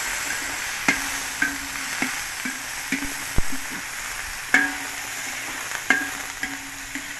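Chopped innards sizzling in hot oil in a large metal wok while a metal spatula stirs them, knocking and scraping against the pan at irregular intervals; each knock leaves a short ring.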